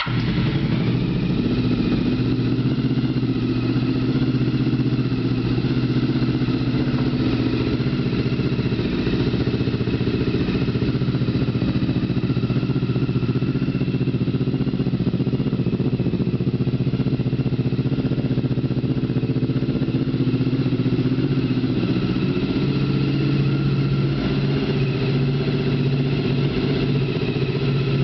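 Honda VFR750's V4 engine idling steadily through a custom exhaust, just after starting.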